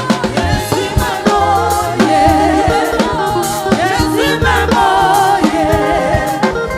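Upbeat gospel praise music: voices singing with vibrato over drums and bass keeping a steady beat.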